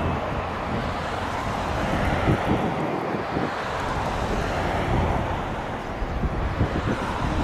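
Steady rush of distant jet airliner engine noise, with wind buffeting the microphone.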